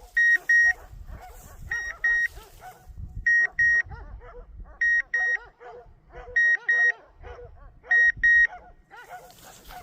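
Hunting dog's electronic beeper collar sounding a steady high double beep, repeating about every second and a half, six times. Dogs barking faintly underneath.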